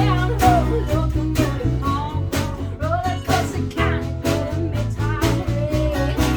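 Country band playing a song live: guitars and bass over a steady beat, with a sung melody line.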